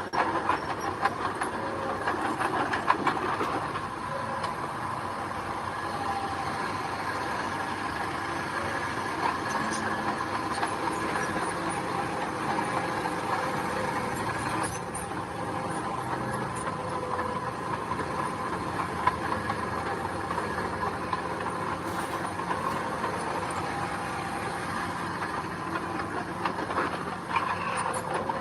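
Engine of heavy road-building machinery running steadily, with clanking in the first few seconds.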